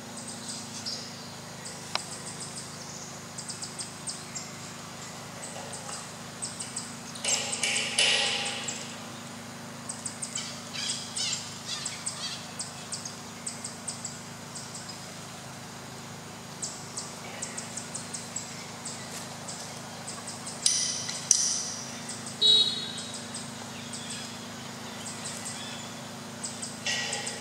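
Forest birds chirping: quick, high chirps come and go, with louder, busier bursts about seven seconds in and again around twenty-one seconds, over a low steady hum.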